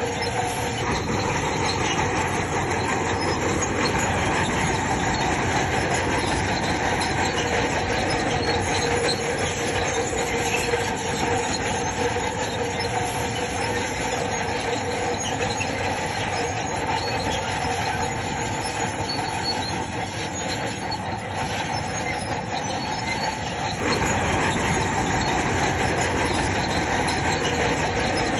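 Crawler bulldozer working, its steel tracks squealing steadily over the engine noise; the noise eases a little, then grows louder again near the end.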